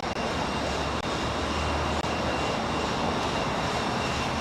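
Steady mechanical drone with a low hum and a thin, steady high whine.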